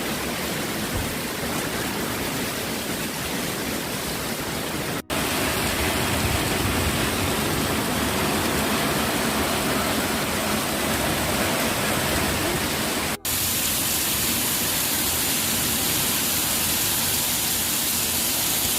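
Steady rushing of water, a continuous even roar with no pattern in it. It breaks off for an instant twice, and after the second break it has more hiss.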